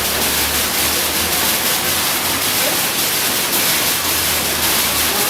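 Water fountain jetting and splashing as a steady, even rush of falling water.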